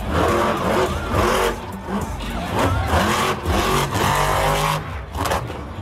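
Megalodon monster truck's engine revving, rising and falling.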